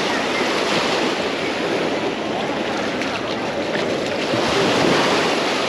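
Sea surf washing up on the beach, a steady rush of small breaking waves that swells a little near the end.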